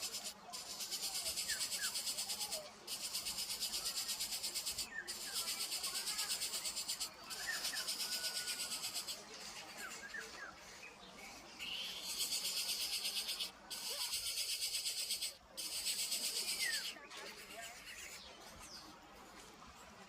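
Insects buzzing in high-pitched, finely pulsed spells of about two seconds with brief breaks between them, fading in the last few seconds. A few short bird chirps sound beneath.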